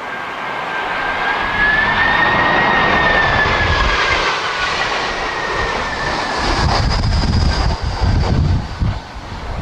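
Jet airliner passing low overhead on landing approach, its engine roar and whine swelling, the whine rising slightly in pitch and then falling as it goes by. From about two-thirds of the way through, strong wind gusts buffet the microphone in low rumbles.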